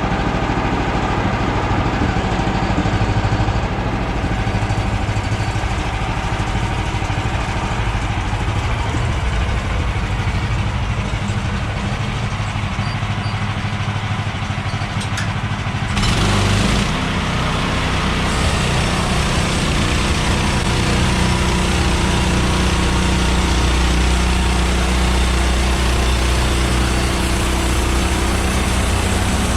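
Small gasoline engine of a Woodland Mills portable bandsaw mill running steadily. About halfway through the sound turns louder and hissier.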